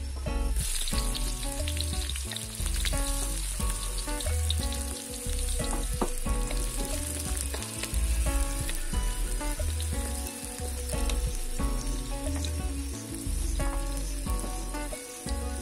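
Sliced shallots and galangal sizzling and frying in hot oil in a metal wok; the sizzle starts suddenly about half a second in as they drop into the oil, then keeps up steadily. Background music plays along.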